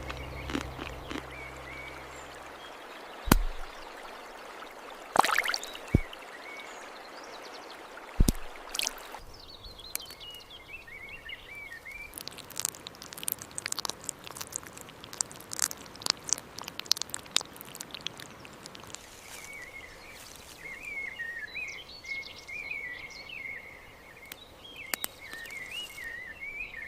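Outdoor ambience of small birds chirping in short warbling phrases, with scattered sharp clicks and knocks, busiest in the middle. A thin strain of background music fades out in the first few seconds.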